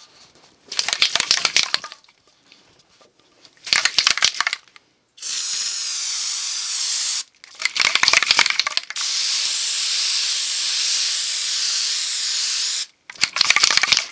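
Aerosol can of rubberized rocker guard undercoating, shaken in short rattling bursts and sprayed in two long, steady hisses, one of about two seconds and one of about four.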